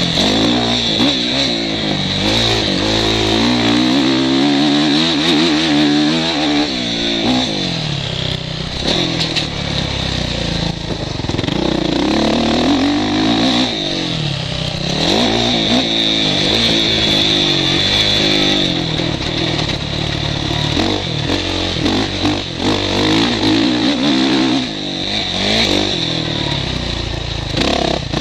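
Motocross bike engine heard from the rider's helmet, revving up and down repeatedly as the rider accelerates and shuts off through a lap, with wind on the microphone and rattling from the bike.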